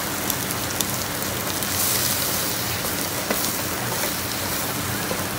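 Heavy rain falling steadily, with a few short sharp ticks.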